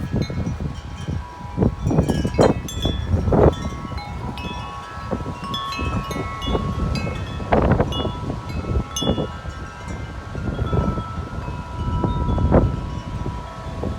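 Tubular metal wind chimes ringing constantly in strong wind gusts, several notes sounding together. Loud bursts of wind buffet the microphone a few seconds in, around the middle and near the end.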